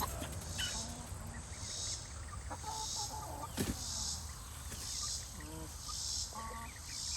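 Chickens giving short, soft clucks and calls, with an insect chirring high in regular pulses about once a second behind them. A single sharp click a little past halfway.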